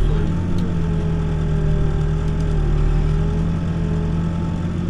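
Backhoe's diesel engine running steadily at low throttle, a constant even hum.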